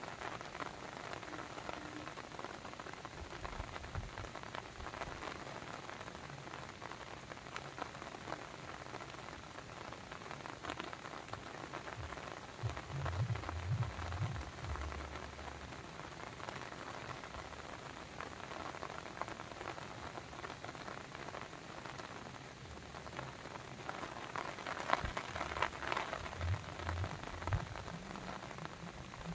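Steady rain pattering on surfaces, a dense hiss of many small drop ticks, with two brief low rumbles, about halfway through and near the end.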